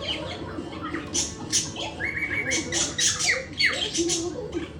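Pet cockatiels and budgerigars chirping and squawking together in a rapid, overlapping jumble of short high calls, with a run of quick downward-sweeping chirps in the middle.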